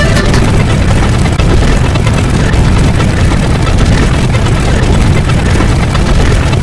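Loud, steady rumbling noise, heaviest in the bass and dense across all pitches, of the engine kind.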